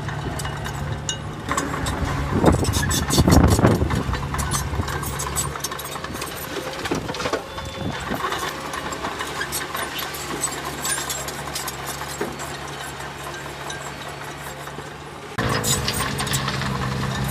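Heavy diesel engine of earthmoving machinery running steadily, with a louder stretch of clatter about three seconds in. The engine sound changes abruptly near the end.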